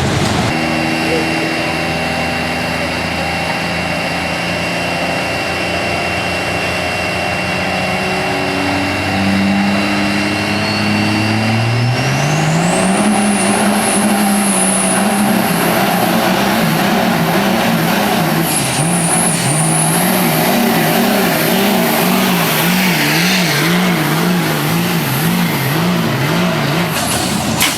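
Diesel 4x4 truck engine under hard load, its pitch climbing in steps and then rising steeply, with a high turbocharger whistle spooling up. Later the engine pitch wavers up and down about twice a second until it cuts off near the end.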